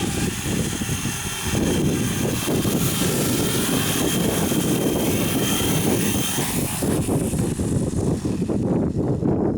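Forza 450 radio-controlled helicopter whining over heavy wind rumble on the microphone. The high whine fades out about seven seconds in, leaving only the wind.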